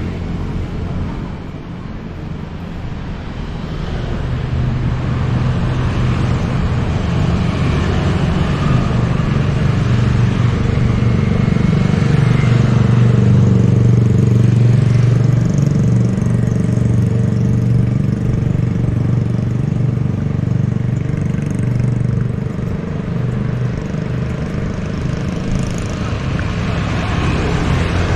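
Road traffic: car and motorbike engines running close by, swelling louder a few seconds in.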